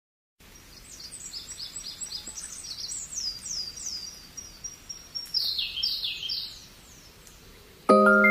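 A songbird singing: rapid runs of high, downward-sliding whistled notes, repeated for about six seconds. Near the end, bright chime-like musical notes start suddenly.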